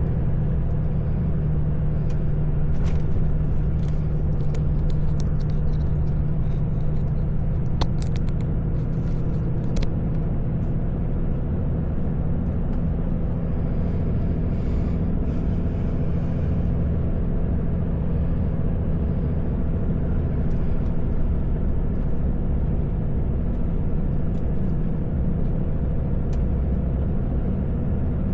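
Heavy truck's engine and tyres running at a steady road speed: a continuous low drone, with a scattering of sharp clicks or rattles in the first third.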